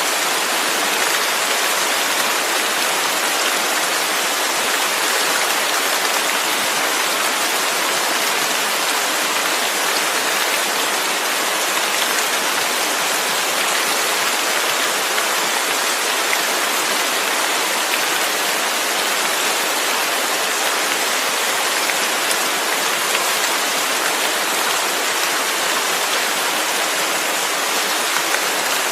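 Steady, dense rain falling, an even hiss with faint scattered drop ticks and no thunder.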